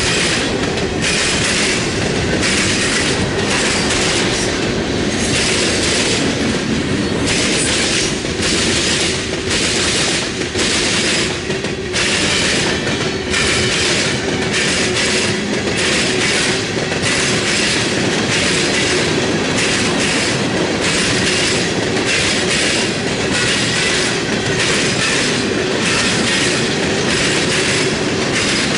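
Freight train cars rolling past, wheels clattering rhythmically over rail joints, with a steady squealing tone from the wheels underneath.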